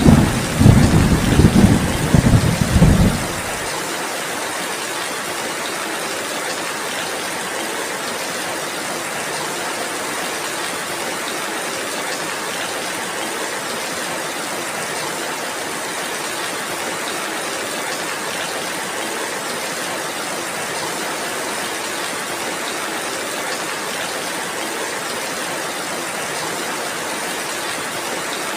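Thunder rumbling during the first few seconds and dying away about three and a half seconds in, over heavy rain. The rain then falls on alone as a steady, even hiss.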